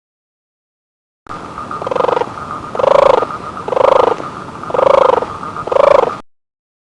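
An animal calling five times, about once a second, each call short and pitched, over a steady background drone; the calls start after about a second of silence.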